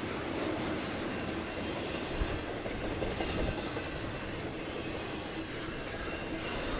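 Double-stack container well cars of a long, heavy freight train rolling past: a steady rumble of steel wheels on rail with a few brief knocks near the middle.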